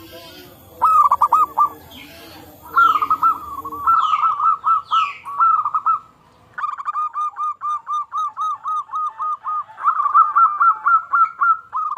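Zebra doves (perkutut) cooing in rapid trains of short, staccato notes, with more than one bird calling over each other near the end. A few quick descending chirps from another bird come between about 2.5 and 5 seconds in.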